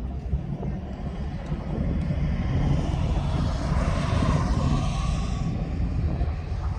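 Car engine running hard, a steady rumble with a higher whine that swells to a peak about four seconds in and then fades.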